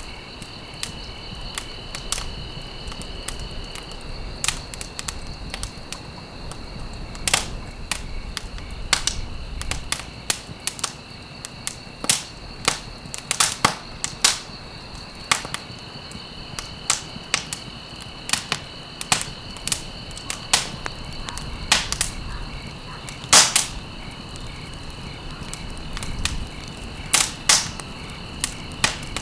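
Wood fire crackling in a fireplace: irregular sharp pops and snaps over a low hiss, a few louder pops standing out, the loudest a little past the middle. A faint, steady high-pitched trill runs underneath.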